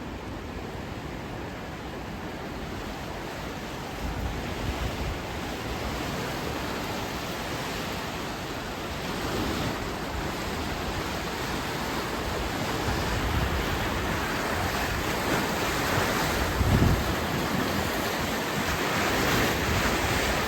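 Swollen floodwater of the Wien River rushing, a steady noise of water that grows gradually louder, with wind buffeting the microphone.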